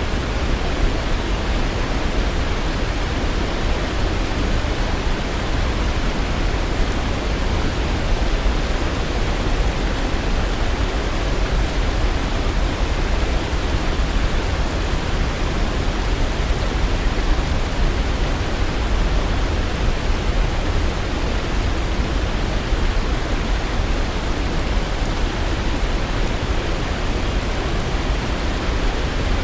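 Waterfall: a steady, even rush of falling water, heaviest in the low end, with no change in level and no birdsong standing out.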